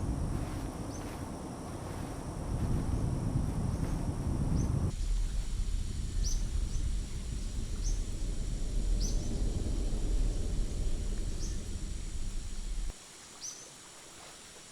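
Rainforest ambience: a steady high insect drone with short, high chirps repeating every second or two, over a low rumbling noise that stops suddenly near the end.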